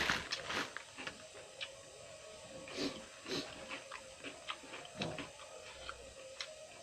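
Close-up eating sounds: chewing with frequent small mouth clicks and smacks, and a few louder bites or crunches, over a faint steady hum.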